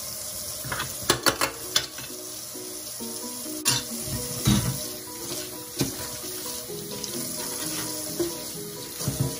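Tap water running steadily into a stainless steel sink while squid is rinsed by hand, with a few sharp knocks and clatters in the sink, several of them about a second in. A soft background tune plays underneath.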